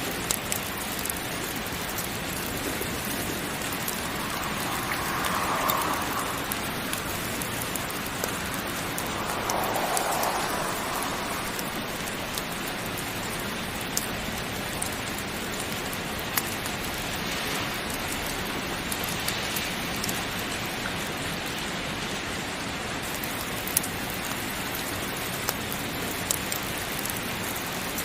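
Heavy, steady rain: an even hiss with scattered sharp ticks, and two brief swells in the first half.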